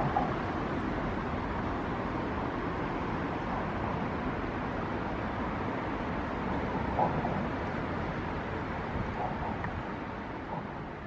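Steady rumble of road traffic, beginning to fade near the end.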